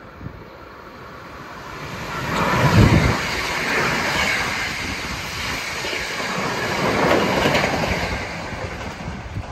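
Hankyu electric train passing on the line, swelling in about two seconds in, loudest as the front goes by, then running on for several seconds and fading near the end.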